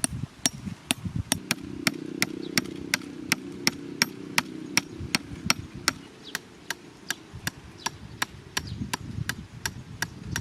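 A steady run of sharp, evenly spaced chopping strikes, about three a second, over a low hum.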